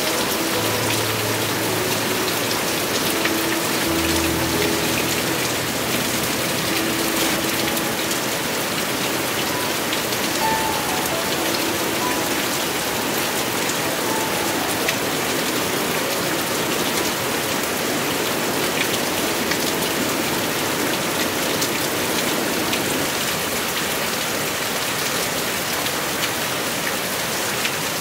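Heavy monsoon rain falling steadily, a dense even hiss of drops hitting surfaces.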